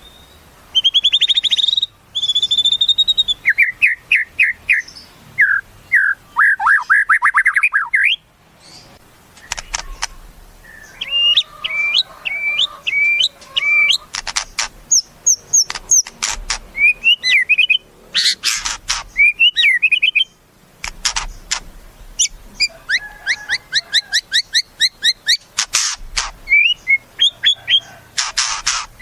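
White-rumped shama (murai batu) singing a loud, varied song in bursts with short pauses: fast trills, clear whistled notes and runs of sharp repeated chips.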